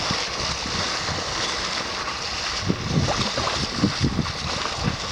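Wind gusting against the microphone over a steady wash of sea noise, the low buffeting growing stronger and more uneven in the second half.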